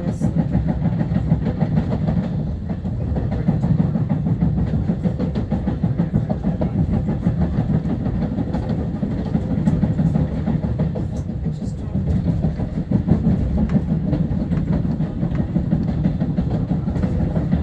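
LIRR M3 electric multiple-unit train running, heard from on board: a steady low rumble of wheels on rail and running gear.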